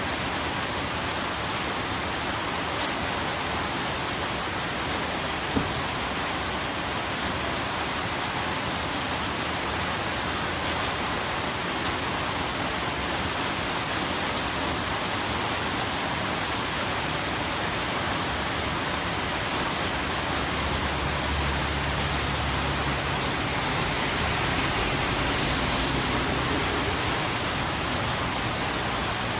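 Steady, even rainfall, with one sharp drip-like click about five seconds in.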